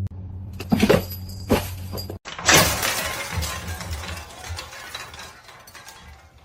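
A few sharp knocks, then a loud crash of something shattering about two and a half seconds in, its clatter dying away over the next few seconds, over light background music.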